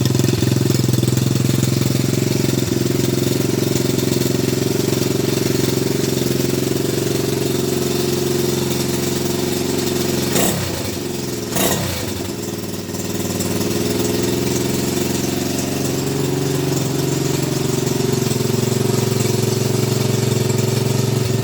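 Barn-find pit bike engine running steadily. About ten seconds in the revs sag and it nearly dies, then picks back up and runs on.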